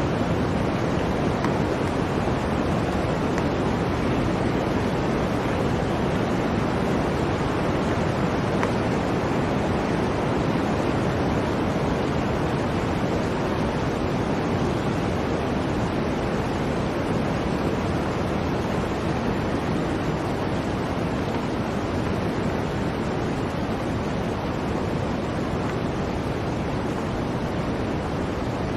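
Blizzard wind blowing steadily: an even rush of noise with no gusts, breaks or sudden sounds.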